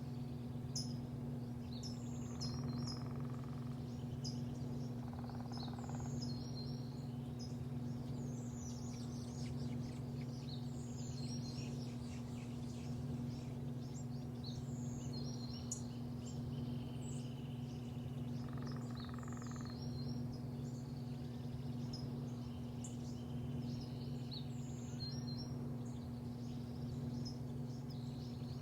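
Small birds chirping repeatedly, in short high calls every second or two, over a steady low mechanical hum.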